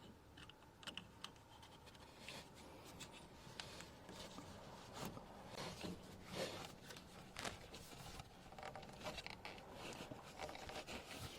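Faint scraping, rubbing and small irregular clicks of 1/2-inch PEX pipe being worked by hand: a stiffener insert seated in the pipe end and the pipe pushed into a push-to-connect fitting.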